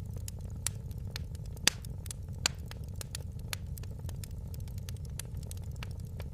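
Wood fire crackling, with irregular sharp pops over a steady low rumble; the loudest pops come about one and a half and two and a half seconds in.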